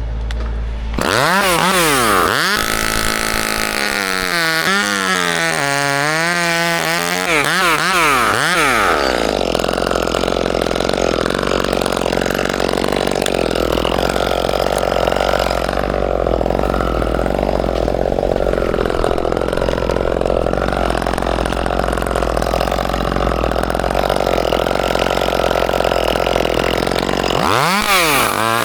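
Gas chainsaw revved up and down several times, then held at a steady high speed for about eighteen seconds, with a few more quick revs near the end.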